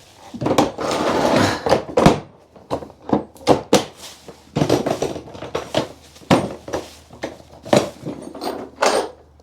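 Metal tools and parts being handled, with irregular clinks and knocks and some rattling and rustling in between.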